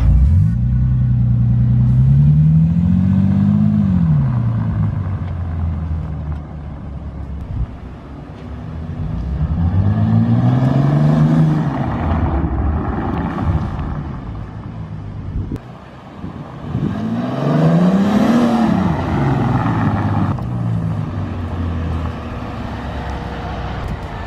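Bentley Continental GT's W12 twin-turbo engine revving through three hard accelerations, its pitch climbing and then dropping back each time, about a second in, around ten seconds in and near eighteen seconds.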